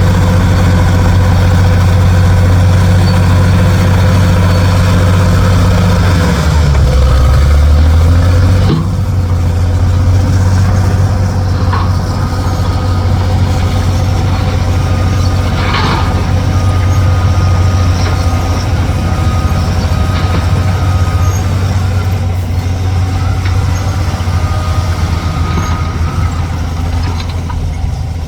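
Heavy dump truck's diesel engine running with a deep steady drone; about six seconds in its note shifts, and near nine seconds it drops abruptly to a lower, quieter run. A thin steady whine comes and goes through the second half, with a single sharp knock partway.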